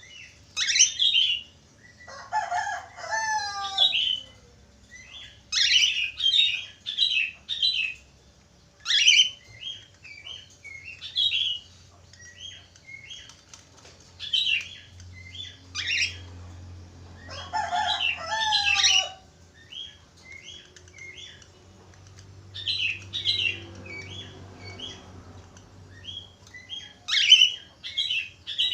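Budgerigars (Australian parakeets) chattering and whistling: a run of short, high chirps, several a second at times, broken twice by lower warbling phrases, about two seconds in and again about seventeen seconds in.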